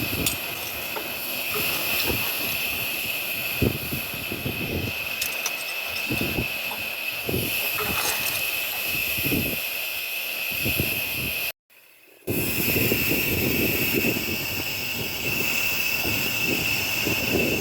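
Miniature live-steam locomotive hissing steadily, with irregular low puffs of steam. The sound drops out for under a second about two-thirds of the way through.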